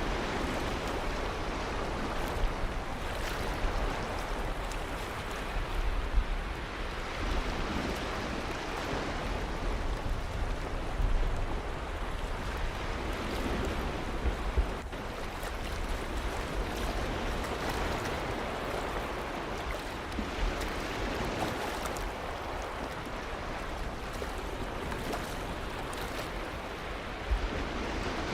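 Ocean surf: waves breaking and washing in, a continuous rush of water that swells and eases every few seconds.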